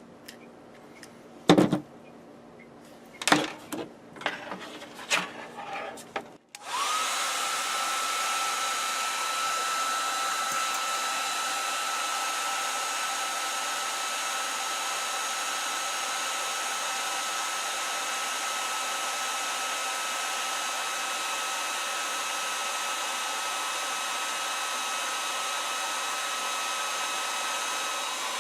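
A few sharp handling knocks, then a hair dryer switched on about six seconds in, spinning up with a briefly rising whine and then running steadily.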